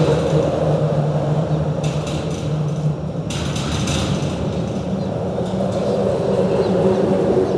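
Steady vehicle engine noise at a bridge, a low hum with a hiss of passing traffic that swells and fades in the middle.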